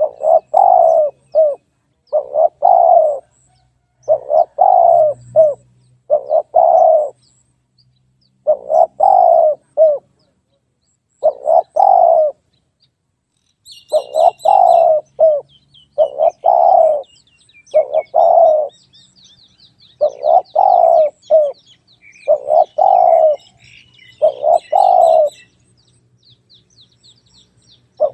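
Spotted dove cooing, its phrases of a few low notes repeating about every two seconds, with short pauses and a longer break near the end. Small birds chirp faintly and high in the middle of the stretch.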